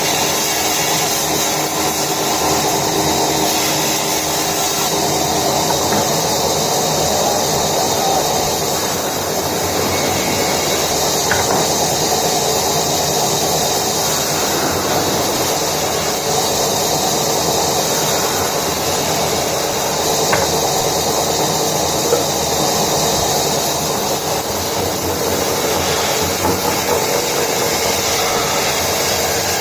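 Woodworking machinery running steadily, a constant motor hum with the hiss of wood being worked, with a few faint clicks.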